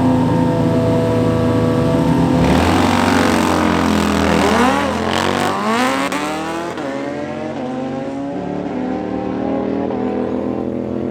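Drag-racing motorcycle engines holding steady revs, then launching about two and a half seconds in. The engine pitch climbs and drops back several times through gear changes, then settles and eases off a little.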